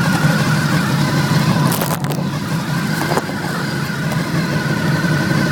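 Motorcycle engine running steadily, with a couple of short sharp clicks about two and three seconds in.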